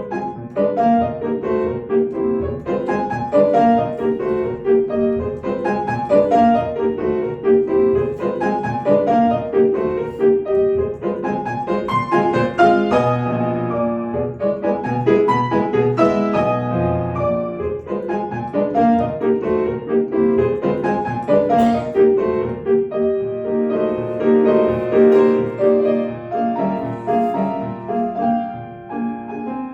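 Solo piano playing a classical piece, many notes in quick succession with a continuous flow of chords and melody.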